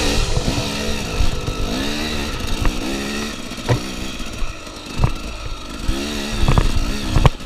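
Off-road enduro motorcycle engine revving up and falling back again and again as it rides a dirt trail, with a few sharp knocks along the way.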